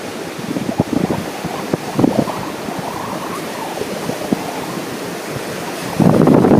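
Wind buffeting the microphone in irregular low thumps over the steady wash of ocean surf, with a stronger gust about six seconds in.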